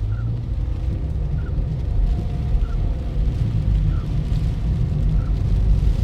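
Toyota Ractis on the move: a steady low rumble of road and wind noise, with a faint short sound repeating about every second and a half.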